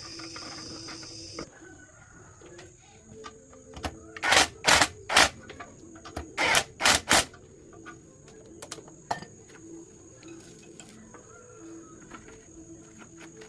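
Crickets chirping steadily, broken by six short, harsh sounds in two quick sets of three about two seconds apart.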